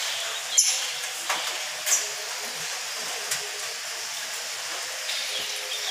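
A few short, high chirps from lovebirds over a steady hiss.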